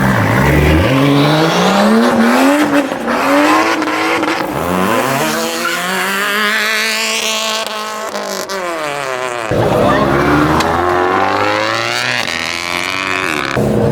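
Car engine revving hard, its note climbing and dropping several times, with tyres squealing as the car spins its wheels on the street.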